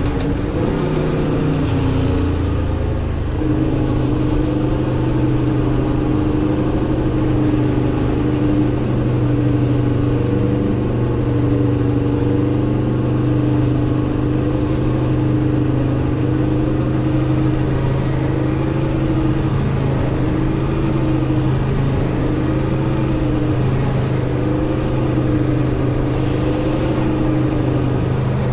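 Aprilia RSV4 RR motorcycle's V4 engine through its stock exhaust, running at a steady pace while riding. The engine note dips briefly about one to three seconds in, then holds steady.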